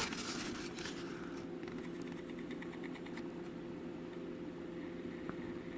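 Steady low mechanical hum made of a few fixed tones, heard in a small enclosed room, with a brief run of faint rapid ticks about a second and a half in.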